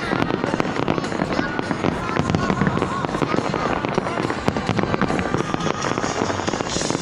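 Dense fireworks: a continuous barrage of rapid bangs and crackling, many overlapping.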